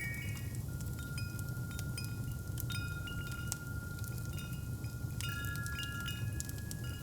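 Wind chimes ringing, a few metal tones struck and left to ring on, with a fresh cluster of strikes about five seconds in. Underneath, a fireplace crackles with scattered pops over a steady low rumble.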